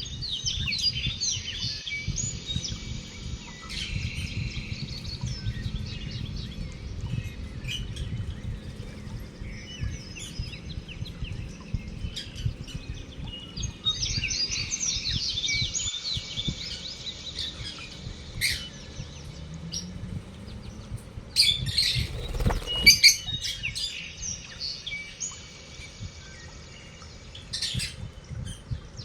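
Lovebirds chattering in bouts of rapid, high chirps. A few loud, sharp knocks come about three quarters of the way through.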